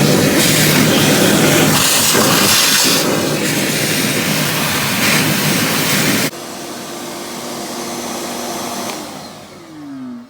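A motor-driven air machine running with a loud rush of air as a grain drill's seed tank is cleaned out. About six seconds in it drops off sharply, and the motor winds down with a falling whine until it stops near the end.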